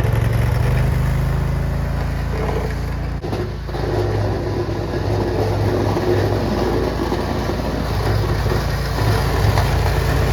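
Lawn tractor engine running steadily while its homemade front plow pushes snow, with a short dip in the sound about three seconds in.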